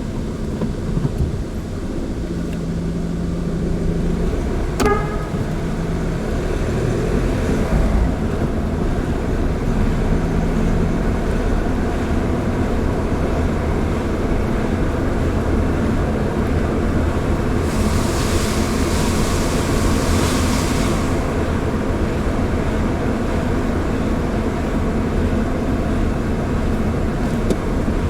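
Car driving steadily along a road, a continuous low engine and tyre rumble. There is a brief squeak about five seconds in and a hiss lasting about three seconds past the middle.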